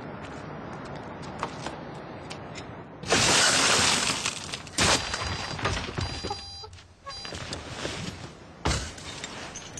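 Glass smashing loudly about three seconds in, with a sharp crack just after and a heavy thump near the end, over a steady low background rumble.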